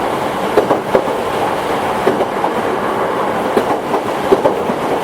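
Toyohashi Railway 1800 series electric train (a former Tokyu car) running along the line with a steady rolling noise. A few sharp clacks of the wheels over rail joints come through, a pair about a second in and more near the end.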